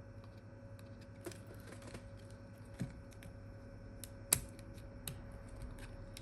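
Scattered small clicks and taps of phone parts and tools being handled during a screen replacement, the sharpest about two-thirds of the way through, over a steady faint hum.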